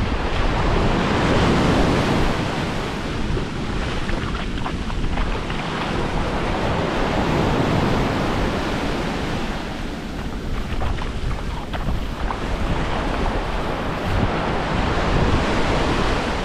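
Gulf surf washing onto the beach, swelling and easing in slow surges, with wind buffeting the microphone in a steady low rumble.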